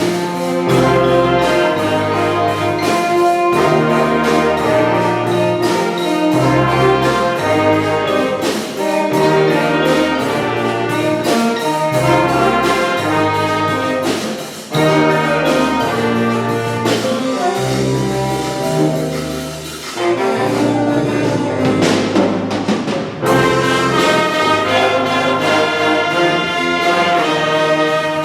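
Wind band playing a piece: stacked, sustained chords over a low line that moves in repeated note patterns. The sound thins for a moment about two-thirds through, then comes back in full.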